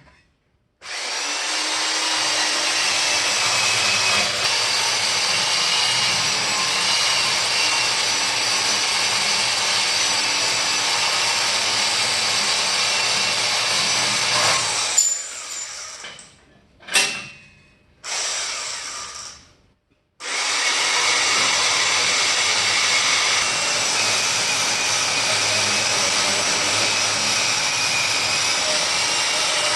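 Angle grinder working steel, running steadily with a high whine. It stops about halfway, gives two short bursts, then runs steadily again for the last third.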